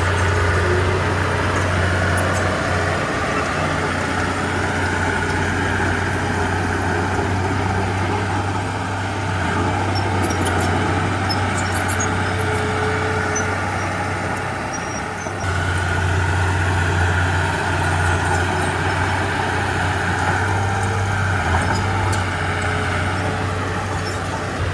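Komatsu D31P bulldozer's diesel engine running steadily under load. Its level sags around the middle, then jumps back up suddenly, with faint clinks scattered through.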